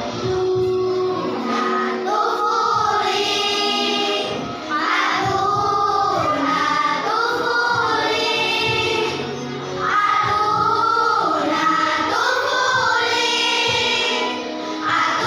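Choir singing a melody in phrases, with brief dips between phrases about every five seconds.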